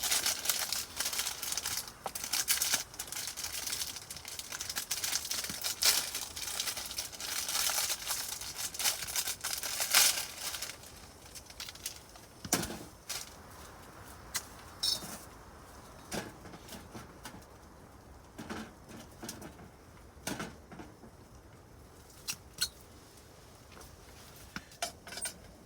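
Crinkling and rustling of a packet being handled for about ten seconds, then scattered light clicks and clinks of cooking utensils.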